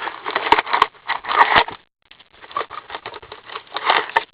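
Plastic and foil wrapping crinkling and tearing as a sealed box of trading-card packs is opened, in several bursts with a few sharp clicks.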